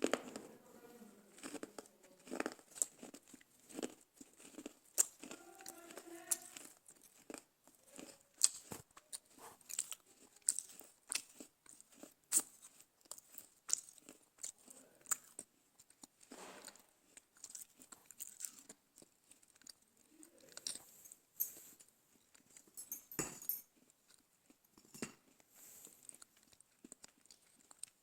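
Dry chikni mitti (smooth clay) being bitten and chewed close to the microphone: a string of sharp, irregular crunches.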